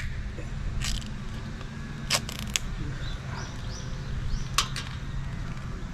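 A few sharp clicks and taps, scattered through the stretch, over a steady low hum, with a few short rising chirps in the middle.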